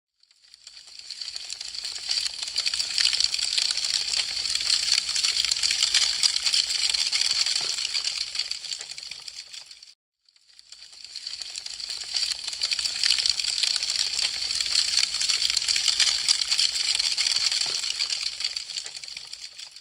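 Burning wood crackling, a dense stream of small sharp snaps and pops that fades in, dies away to a moment of silence about halfway through, and swells again.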